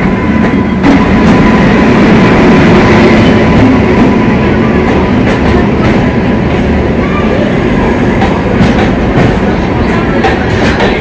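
Passenger train pulling into the platform, its coaches rolling past close by: steady wheel-on-rail noise with scattered clicks of wheels passing over rail joints, more of them near the end.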